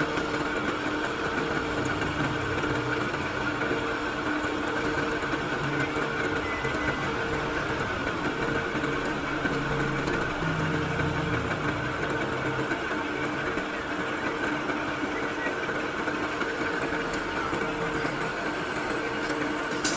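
A machine running steadily: an even mechanical hum with a couple of constant tones and no change in speed.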